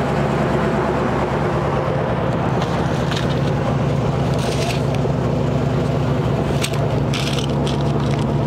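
A vehicle engine idling steadily, with a few short scraping, crunching noises over it about three, four and a half, and seven seconds in.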